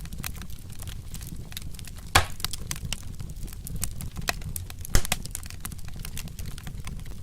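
Wood fire crackling, a dense run of small snaps over a steady low rumble, with two louder pops, one about two seconds in and one about five seconds in.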